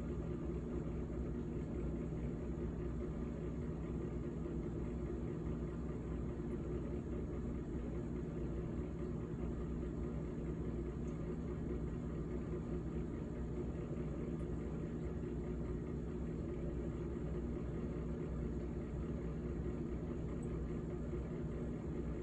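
GE GTH18XCTZRBB refrigerator running: a steady hum with several low tones and an even hiss, unchanging throughout.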